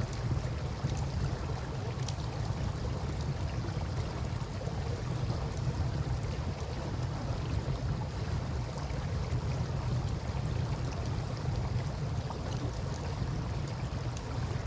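Campfire crackling with scattered small pops, over the steady rush of river water and a constant low rumble.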